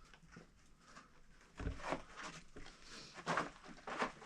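Footsteps and scuffs of a hiker scrambling over sandstone, with a heavier thump about one and a half seconds in.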